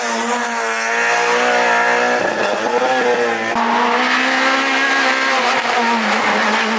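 Rally car engine running hard at high revs, its pitch shifting abruptly about two seconds in and again about three and a half seconds in.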